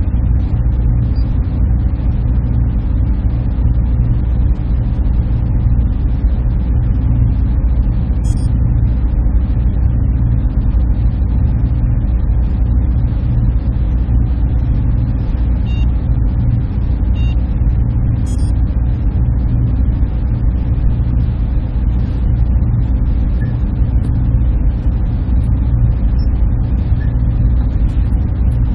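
Server room ambience: the steady hum and whir of rack server cooling fans and air handling, heavy in the low range, with a couple of faint brief ticks.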